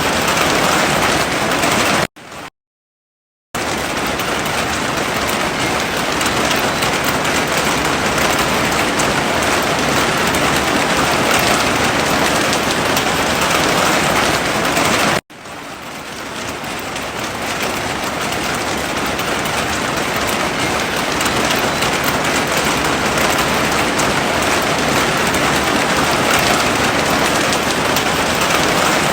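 Heavy rain falling, a steady, dense hiss. It cuts to silence for about a second and a half around two seconds in. It breaks off again briefly about halfway through and swells back up over the next few seconds.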